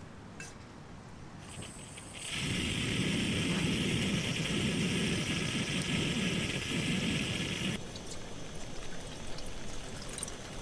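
Water being poured steadily into a container for about five and a half seconds, starting sharply about two seconds in and cutting off suddenly.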